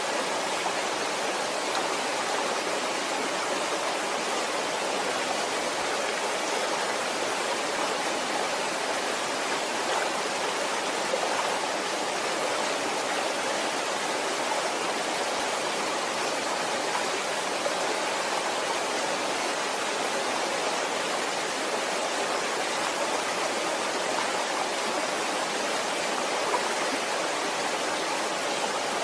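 Waterfall: the steady rush of falling water, even and unbroken throughout.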